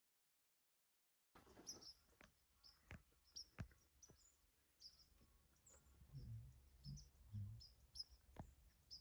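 Faint small-bird chirps, many short high notes, in quiet woods, with a few sharp clicks and soft low thumps; dead silence for the first second and a half.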